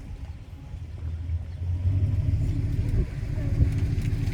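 Tow vehicle's engine running low and steady as it pulls the boat trailer up the launch ramp, getting louder about a second in, with a single knock a little before the end.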